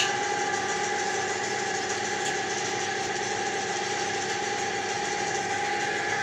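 Motor of a pipe-unclogging machine running steadily with a constant whine.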